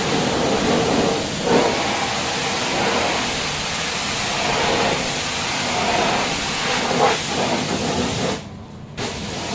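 High-pressure water jets of an automatic car wash spraying: a steady loud hiss that cuts out for a moment about a second before the end.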